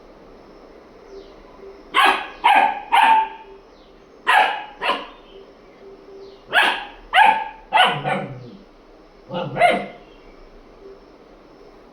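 A dog barking: about ten short, sharp barks in four bursts of two or three, with pauses between.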